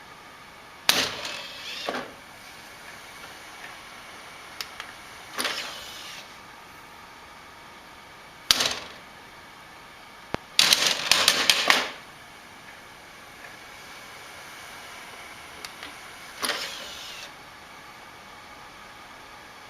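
A series of sharp clatters and knocks, with a second-long quick rattle about halfway through.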